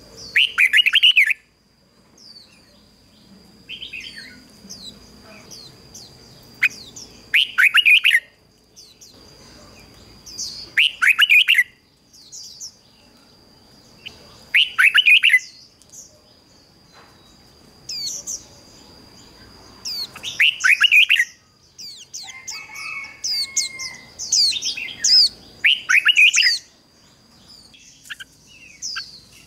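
Red-whiskered bulbul singing: short, bright warbled phrases repeated every few seconds, coming closer together after about 18 s. A faint, steady high-pitched tone runs underneath.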